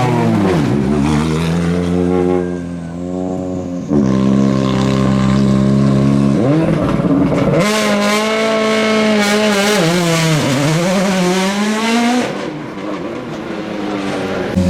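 World Rally Car turbocharged four-cylinder engines driven hard on a stage. The pitch dips as a car slows into a bend and climbs again as it accelerates, several times, in short takes joined by abrupt cuts.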